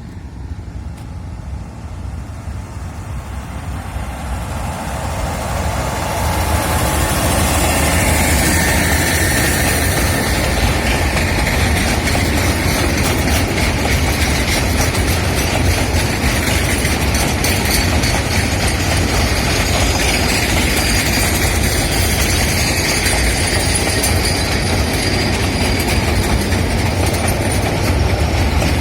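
Sugar cane train running on its narrow-gauge track: a continuous rumble and rattle of the wagons. It grows louder over the first six seconds and then holds steady at close range, with high squealing tones from the wheels over it.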